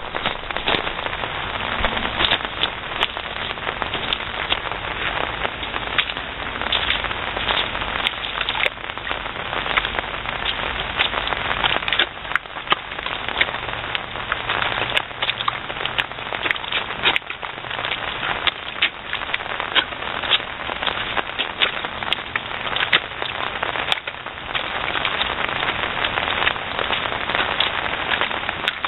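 Rain falling on a lawn: a dense, steady crackle of drops, with many sharp ticks from drops striking close by.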